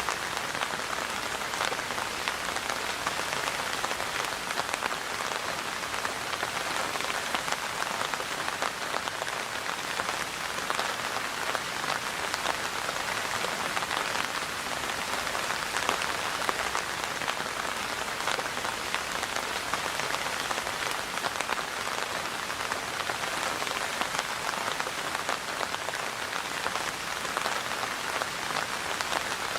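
Steady rain falling on a surface: a constant hiss of many fine drop impacts that does not change.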